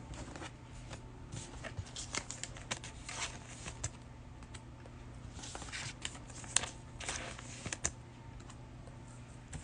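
Trading cards being handled: faint light clicks and rustles as the cards are sorted and slid against one another, over a low steady hum.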